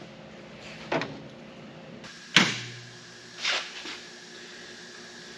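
Three separate knocks about a second apart. The middle one is the loudest, with a short low ringing after it.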